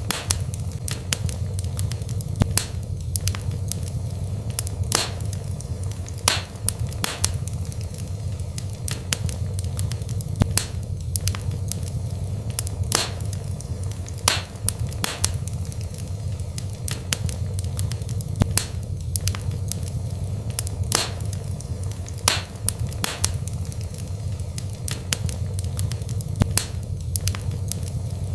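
Wood fire burning in a fireplace: irregular sharp crackles and pops, about one or two a second, over a steady low rumble.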